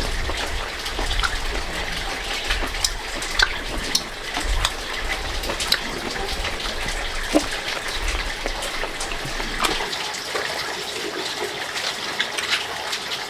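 Water running and splashing steadily, with scattered small knocks and clicks.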